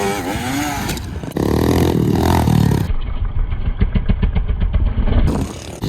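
Small pit-bike engines revving on a trail, jumping suddenly louder about a second and a half in. Partway through, the sound turns duller, with a quick, even run of engine pulses.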